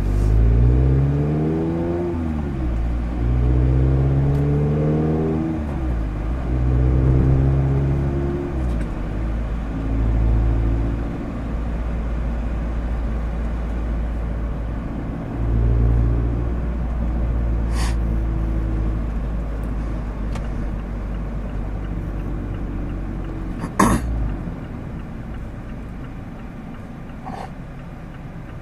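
Mazda MX-5 Miata's four-cylinder engine through a Goodwin Racing RoadsterSport race exhaust, heard from the driver's seat while accelerating hard through three gears, the pitch rising and dropping at each upshift, then settling into steady cruising with a few light throttle rises. A single sharp click sounds a few seconds before the end.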